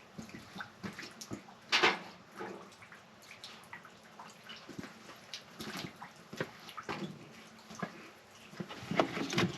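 Scattered clicks and clinks of hand tools and metal parts being handled during a spark-plug change on a VW Vanagon engine, with a louder knock about two seconds in and a few more near the end.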